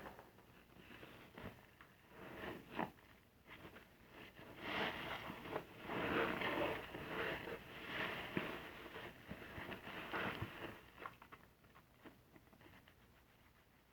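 A soapy car-wash sponge being squeezed and worked by hand: wet squishing and crackling of lather in uneven pulses, busiest through the middle and fading near the end.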